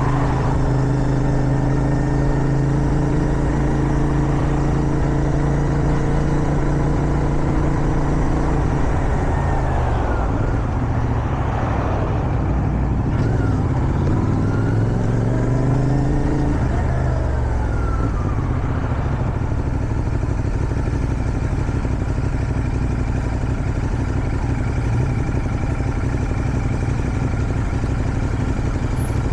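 CFMoto 450SR's parallel-twin engine under way at a steady cruise. About ten seconds in, the engine note falls and then climbs again as the bike slows and is accelerated back up, before it settles into a steady cruise. Wind rushes over the microphone throughout.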